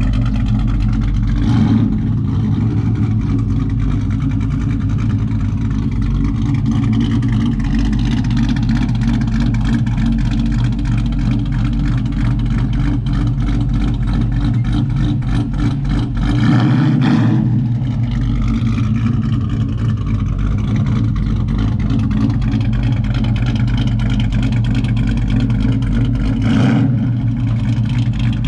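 Pickup truck engine running loud and steady, with three brief revs.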